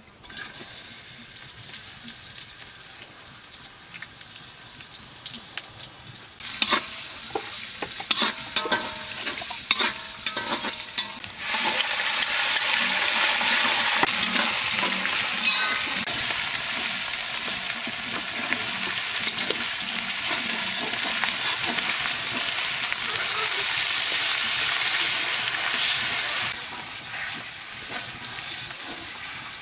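Sliced onions and green chillies frying in hot oil in a metal wok, stirred with a metal spatula. A run of sharp clanks and knocks comes midway, then the sizzling jumps suddenly louder about eleven seconds in and stays loud until it eases a few seconds before the end.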